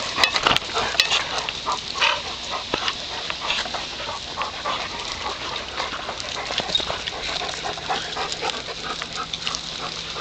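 Dogs barking, many short calls in quick succession, loudest in the first second or two.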